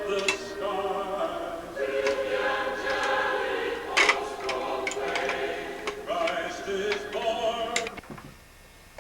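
Recorded choral music with several sharp clicks or knocks over it. It cuts off suddenly about eight seconds in.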